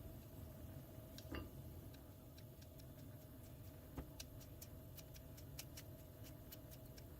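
Faint light taps and clicks over a low steady hum, with a single knock about four seconds in, followed by a quicker run of small ticks.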